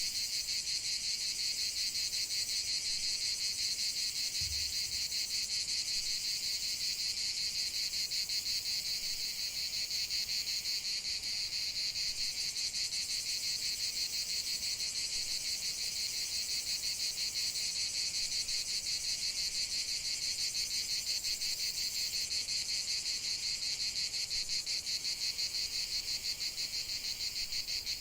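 A dense, steady chorus of crickets chirring high and fast, with no low sound beneath it.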